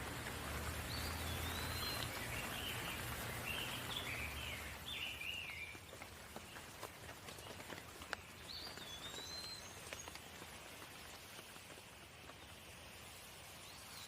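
Steady rain falling, with scattered drops ticking. A bird sings a run of short chirping phrases through the first five seconds and calls again briefly about eight seconds in. The rain gets quieter after about five seconds.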